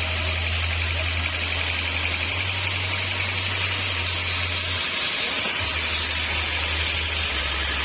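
Sawmill machinery running steadily: a continuous mechanical hiss and hum that does not rise or fall.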